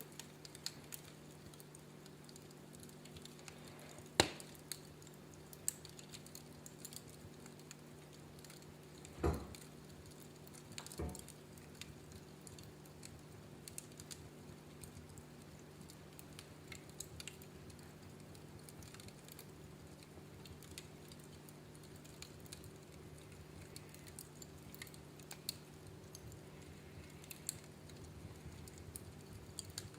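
Wood fire in a fireplace crackling: scattered small snaps and ticks, a sharp crack about four seconds in and two duller pops a little later, over a faint steady hum.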